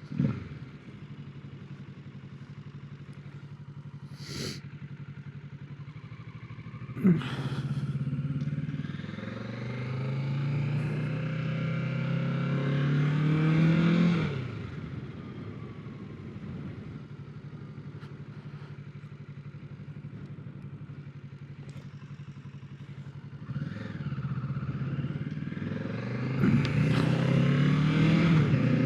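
Kawasaki Ninja 650's parallel-twin engine running at low revs, then rising in pitch as the bike accelerates from about eight seconds in. It drops back a few seconds later, runs low again, and rises once more near the end, with a few brief sharp sounds along the way.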